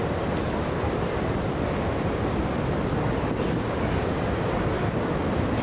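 A procession of Chevrolet Corvettes rolling slowly past at parade pace, their V8 engines running in a steady low drone.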